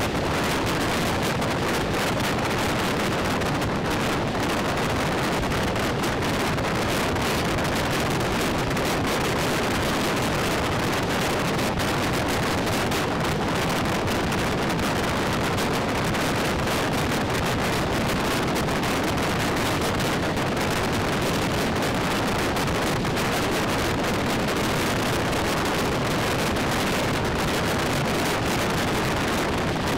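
Steady rush of wind on the microphone with the running noise of a moving express passenger train, even and unbroken throughout.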